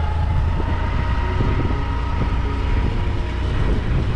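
A road vehicle travelling along, its engine and the road making a steady low rumble with a faint high whine.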